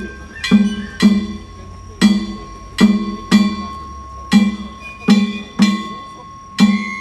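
Danjiri festival percussion (narimono): a large taiko drum beaten together with ringing kane gongs, the strikes falling mostly in pairs about half a second apart with longer gaps between, the metal ringing on between beats.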